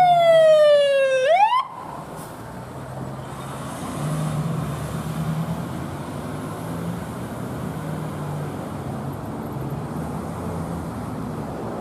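Fire engine's electronic siren sweeping down in pitch, swinging briefly back up and cutting off abruptly under two seconds in. The truck's diesel engine then runs on steadily, a little louder around four seconds in.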